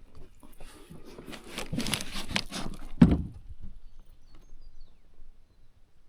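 Clattering and rustling of gear being handled in a kayak. It builds over about two seconds to one loud thump about three seconds in, followed by a few softer knocks.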